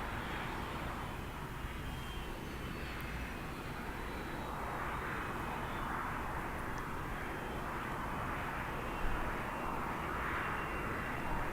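Jet engine noise from NASA's Shuttle Carrier Aircraft, a modified Boeing 747 with four turbofan engines: a steady rushing hum over a low rumble that swells slightly a few times.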